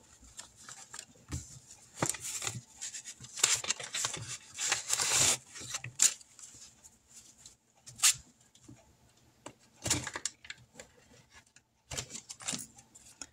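Paper bills and cash envelopes being handled and shuffled: irregular rustling and crinkling with small clicks, loudest in a few bursts.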